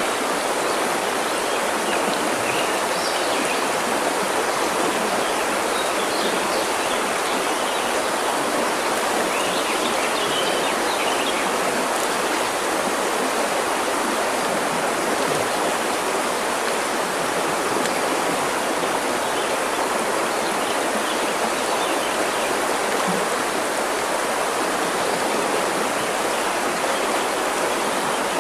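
River water flowing in a steady, even rush, with a few faint bird chirps in the first half.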